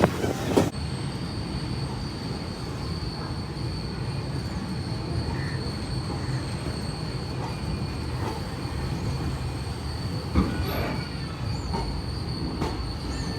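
Passenger express train running on the track: a steady rumble of coaches over the rails, with a sharp knock about ten seconds in.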